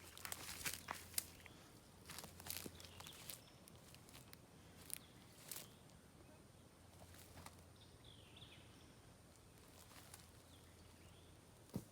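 Soft footsteps over the first few seconds, then near silence outdoors. A single sharp knock comes near the end.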